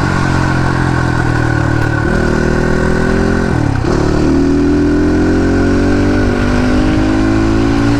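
Crossfire RM250 motorcycle engine pulling under way, its pitch climbing slowly; about two seconds in it steps up, and just under four seconds in it drops briefly and picks up again, as at a gear change, before climbing steadily once more.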